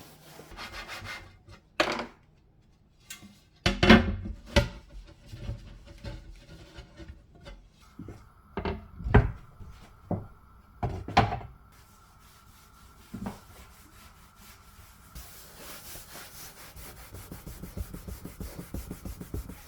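Scattered knocks and clatter on a kitchen countertop, then in the last few seconds a fast run of scraping strokes: a flat-edge razor blade scraping dried dough off the counter.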